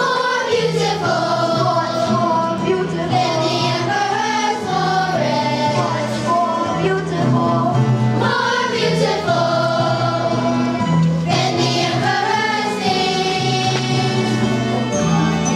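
A children's choir singing a song from the musical in unison, over instrumental accompaniment with steady bass notes.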